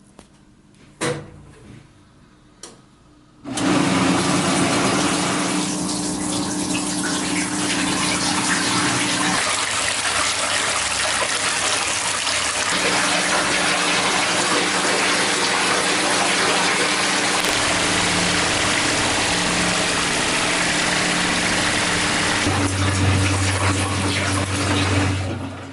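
Daewoo top-loading washing machine running: a couple of clicks, then about three seconds in a loud rush of water with a steady motor hum that shifts in pitch a few times, stopping abruptly near the end.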